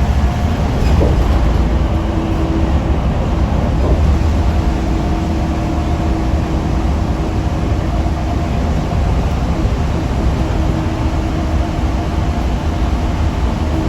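Scania K310UB6X2 tri-axle city bus under way, its engine and road noise making a steady low rumble. A faint whine comes and goes over it.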